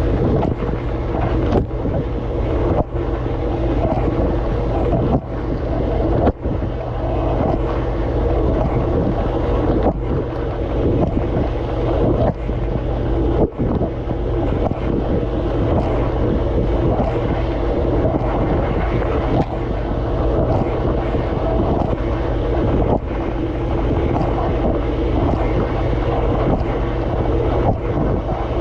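Dishwasher running mid-cycle, heard from inside the tub: water from the spray arms splashing over the dishes and the camera, over the steady hum of the wash pump, with brief drops in the spray every few seconds.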